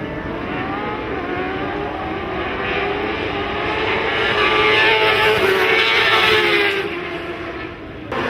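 Racing motorcycles at high revs approaching and passing, the engine note rising and growing louder as they close in, then dropping in pitch and fading as they go by. Near the end the sound cuts off abruptly and another bike's engine comes in loud.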